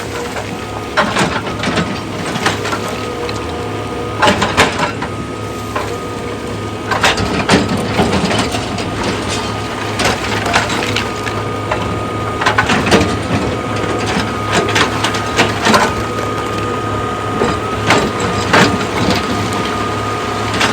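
Heavy rock-crushing machinery at work: stone cracking and crunching in irregular sharp hits over a steady machine hum.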